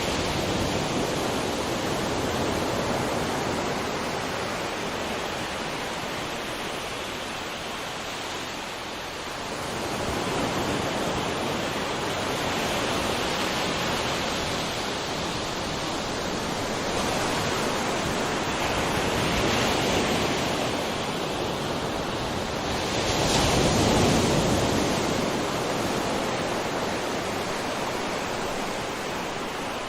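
Sea waves washing onto a shore in a continuous rushing surf, swelling and easing every several seconds, with the biggest surge about three-quarters of the way through.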